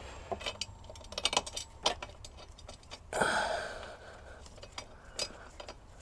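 Small metal bolts and washers clicking and clinking as they are handled and Loctite is put on them, in scattered sharp ticks. A short rushing noise about three seconds in is the loudest sound.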